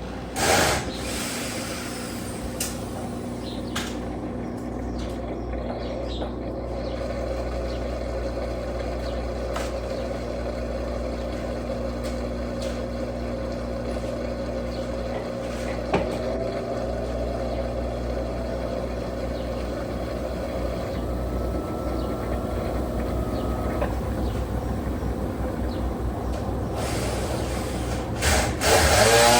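Electrolux Turbo Capacidade Premium 15 kg top-loading washing machine running steadily with a low motor hum, with a brief louder sound about half a second in and a louder stretch with gliding tones near the end.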